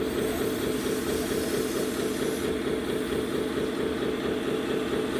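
Engine-sound module of a 1/14 RC scale truck playing a truck diesel idling, with a steady fast pulsing note.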